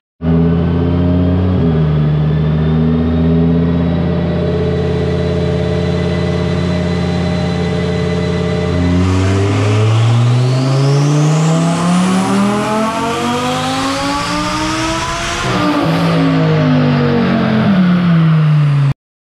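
Twin-turbocharged 2018 Audi R8 V10 engine running steadily, then rising in pitch for about six seconds and falling away again; the sound cuts off suddenly near the end.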